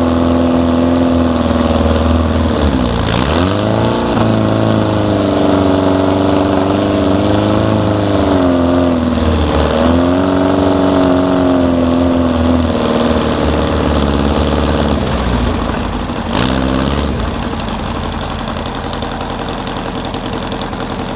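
Air-cooled Volkswagen flat-four engine working hard under revs, its pitch sagging and climbing back twice, about three seconds in and again near ten seconds, then easing off. There is a short loud jolt a little after sixteen seconds.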